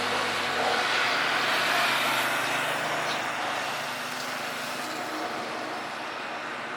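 Jet engine noise of a Boeing 737-900ER landing, a steady rushing sound that slowly fades as the airliner moves away.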